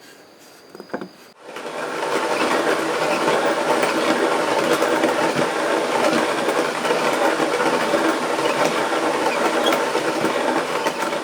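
Laser engraver running, its head and gantry stepper motors making a dense, rapid mechanical buzzing that starts abruptly just over a second in and holds steady.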